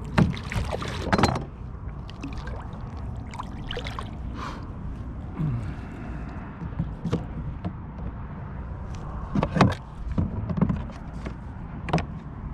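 Scattered knocks and clatter on a fishing kayak as a deeply hooked redfish is handled and unhooked, over a steady low rumble. The loudest knocks come near the start, about a second in, and twice more towards the end.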